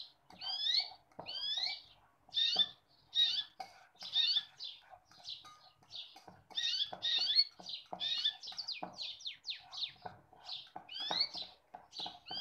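A bird chirping over and over in quick, sweeping calls, with the clicks and scrapes of a fork mashing a banana in a stainless steel bowl.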